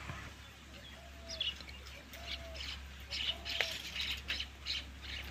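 Small birds chirping in short, scattered calls, with a few brief whistled notes lower down, over a steady low hum.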